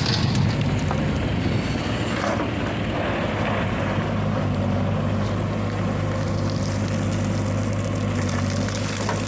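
Heavy diesel engine running steadily at an even speed, with no change in pitch.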